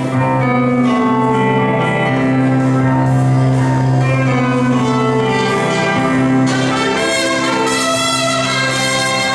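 Brass fanfare played on bugles: long held chords over a steady low note, shifting every second or two, turning brighter and fuller about two-thirds of the way in.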